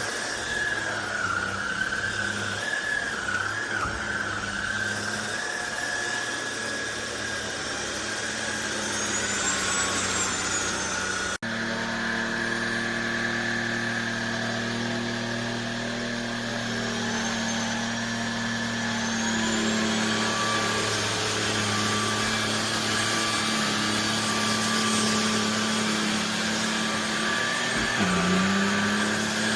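Cordless stick vacuum cleaner running with a steady motor whine, with an abrupt cut about eleven seconds in before it runs on.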